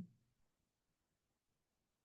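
Near silence: a pause between phrases of speech.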